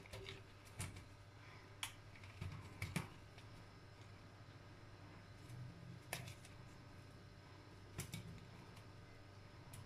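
Faint, scattered light clicks and small splashy taps from a budgerigar bathing, coming irregularly a few seconds apart.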